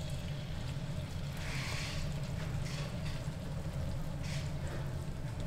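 Mung-bean batter sizzling in pork fat on a flat griddle as a ladle spreads it into a pancake, the hiss swelling about one and a half seconds in and again briefly just past four seconds. A steady low hum runs underneath and is the loudest sound.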